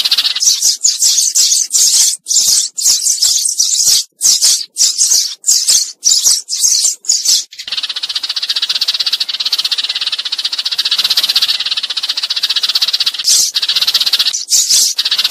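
Sparrows calling a flock in, the chatter used as a lure call for trapping: quick high chirping bursts, then from about eight seconds in an unbroken dense chatter for about five seconds, then bursts again near the end.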